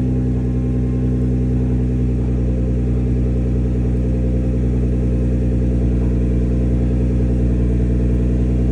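2012 Nissan GT-R's twin-turbo V6 idling steadily through an HKS cat-back exhaust after a cold start, a deep even exhaust note.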